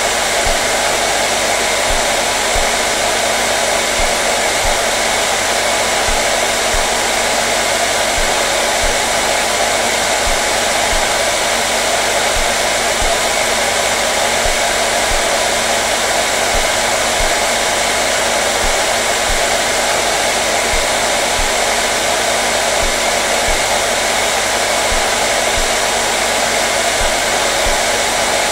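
Hair dryer running steadily: a constant dense rush of blown air with a faint steady motor hum underneath, unchanging throughout.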